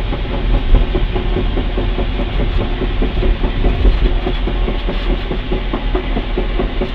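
1999 Ford Mustang coasting down on deceleration, with a rapid, irregular clunking from the drivetrain over the low running noise of the car.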